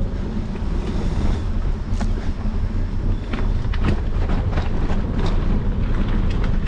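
Wind buffeting the microphone over the rumble of a bicycle riding rough single-track dirt trail, with frequent short clicks and knocks as the bike rattles over bumps.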